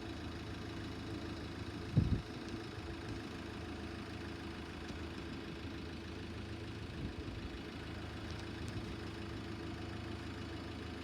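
Vehicle engine idling with a steady low hum, and a single thump about two seconds in.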